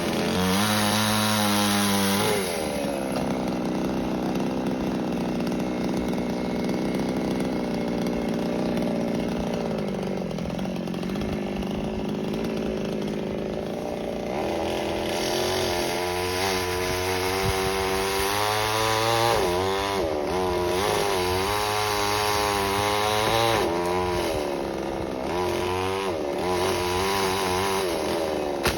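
Chainsaw running while cutting into a Manila tamarind tree, its engine note steady at first, then rising and falling over and over in the second half as it revs and labours in the wood.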